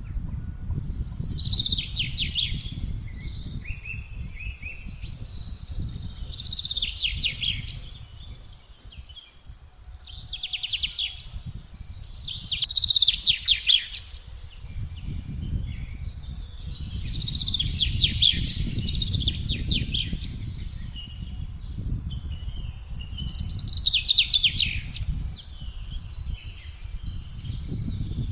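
Songbirds singing short, rapid trilled phrases every few seconds over low, gusty wind noise. The wind dies down briefly about a third of the way in, then rises again.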